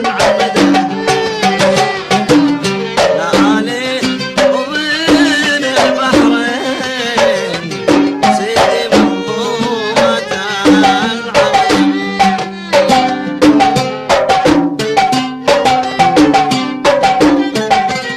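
Instrumental passage of a Gulf sawt song: a violin plays a wavering melody over a dense, steady rhythm of mirwas hand drums, with plucked string notes beneath.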